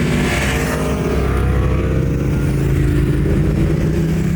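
Aprilia Tuono V4 Factory's V4 engine running steadily, its pitch dipping slightly in the first second.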